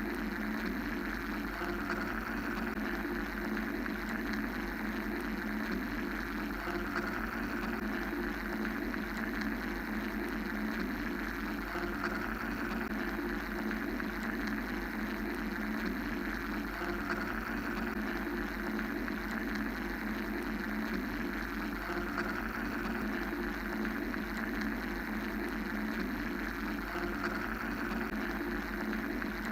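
Steady mechanical drone: a continuous low hum with a hissing layer on top that swells gently about every five seconds.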